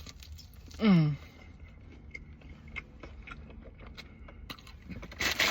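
A person chewing a mouthful of corned beef egg roll, with faint small clicks of chewing. About a second in there is a short vocal sound falling in pitch, and a brief burst of noise just before the end.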